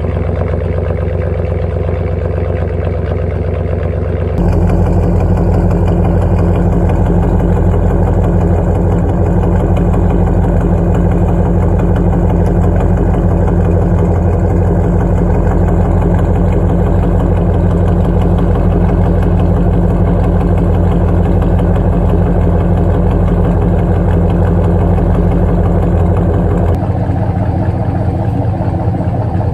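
Second-generation Dodge Ram 1500 idling cold on a true dual exhaust (2¼-inch pipes into a Cherry Bomb Extreme muffler), steady and even. It gets louder about four seconds in and drops back a few seconds before the end.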